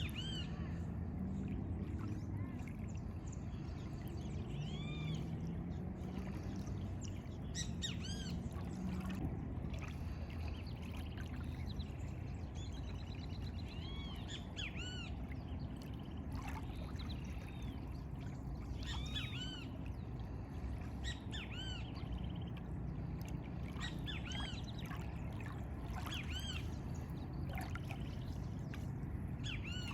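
Several small birds chirping in short, arched notes again and again, over a steady low rumble.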